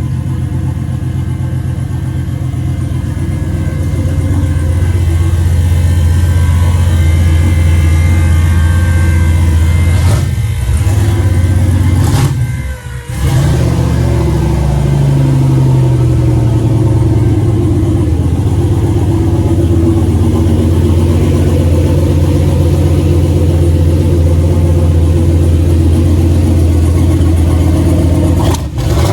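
Turbocharged 5.3 L Gen 4 LS V8 running hard on a chassis dyno, held at steady revs for long stretches. About 13 seconds in it briefly drops away, then the pitch falls as the revs come down and it settles steady again.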